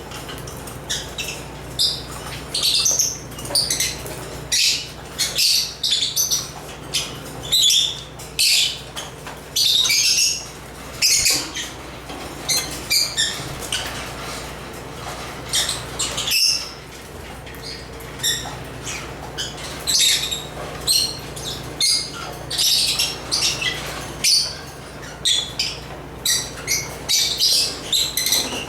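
African lovebirds (Agapornis) chirping and squawking: a dense, irregular stream of short, sharp high-pitched calls, several birds at once.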